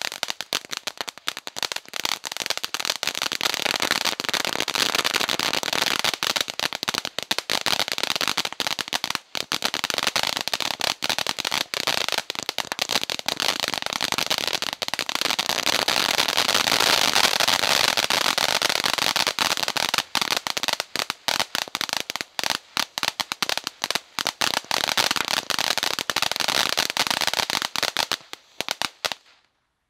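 World Class Fireworks 'Psychedelic' cake firing, a dense and rapid crackle of countless small pops that goes on without a break. Near the end it thins into scattered pops, then stops.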